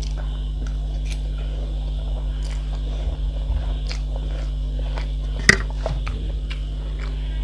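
Close-miked chewing and biting of soft food, with scattered wet mouth clicks and one sharper, louder click about five and a half seconds in, over a steady low hum.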